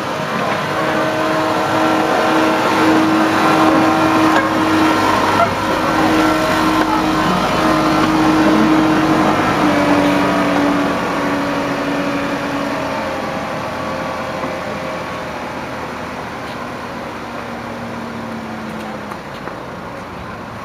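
Miniature railway train running, heard from the locomotive cab: a steady mechanical running noise with several held tones that shift slightly in pitch, gradually getting quieter through the second half.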